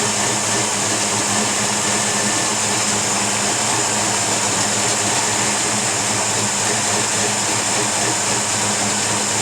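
Chevy 383 stroker V8 (a 400 small-block with a 350 crankshaft) running at a steady idle.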